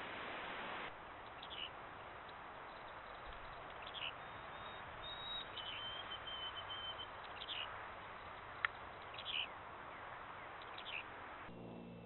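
Short, high bird calls every second or two, with a thin trill about halfway, over the steady hiss of a trail camera's microphone. There is one sharp click about two-thirds of the way in, and a low hum starts just before the end.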